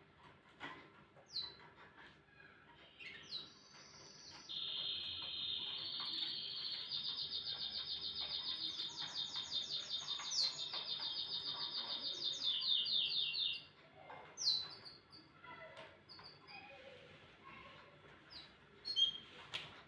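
Domestic canary singing: a few short chirps, then a long run of rapid trills that lasts about nine seconds, then more short chirps near the end.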